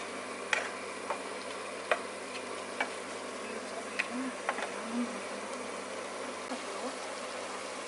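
Ragu of ground meat and vegetables cooking in a pot, a steady hiss with scattered sharp pops and crackles at irregular intervals as the liquid cooks down.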